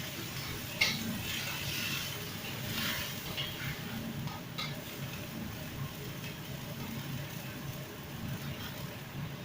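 Food frying in a pan while it is stirred, with irregular scrapes and clinks of a utensil against the pan; one sharp clink about a second in.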